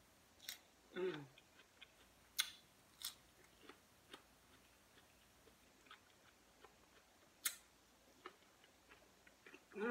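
Close-miked eating sounds: a cucumber spear dipped in sauce being bitten and chewed, with a few sharp crunchy clicks and fainter wet chewing between them. A short falling hum about a second in.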